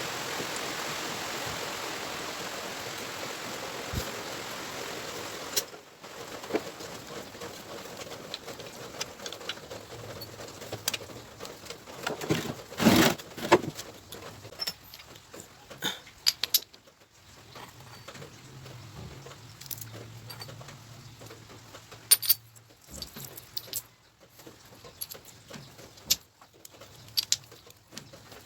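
A steady hiss cuts off about six seconds in. After it come scattered metallic clicks, clinks and knocks of hand tools and small engine parts being handled while the motorcycle engine is put back together.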